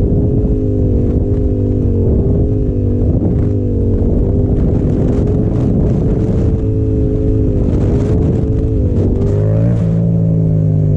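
Yamaha FZ-07's 689 cc parallel-twin engine held at steady revs under light throttle during a wheelie, the pitch wavering slightly as the rider balances it. Near the end the revs rise briefly, then fall away.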